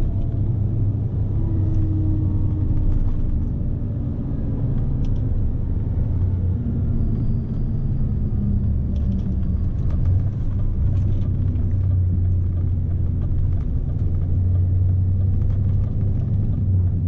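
Scania S520 truck's V8 diesel running under way with a heavy load, heard from inside the cab: a steady low drone with road noise. A fainter engine note drifts slowly lower over the first few seconds.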